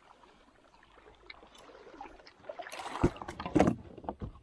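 Water splashing and knocking around a kayak as a hooked fish is brought to the landing net, building to a few loud splashes and knocks about three seconds in.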